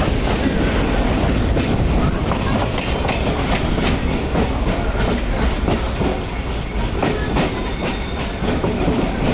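Electric multiple-unit suburban train running, heard on board: a steady rumble with the wheels clacking irregularly over the rail joints.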